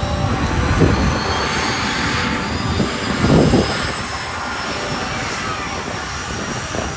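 Jet engine of a jet-powered van running: a steady loud roar with a high whine that falls slowly in pitch, and a brief louder surge about three and a half seconds in.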